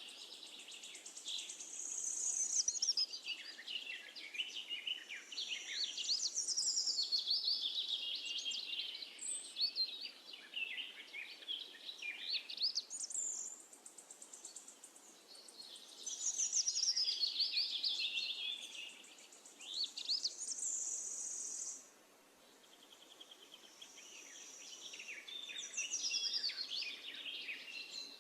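Birdsong chorus: several birds chirping and warbling in quick high notes. Twice, a steady high buzzing trill joins them for a couple of seconds.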